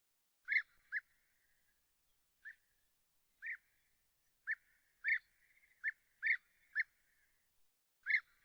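A bird giving short, clipped calls, about a dozen notes at uneven intervals, starting about half a second in.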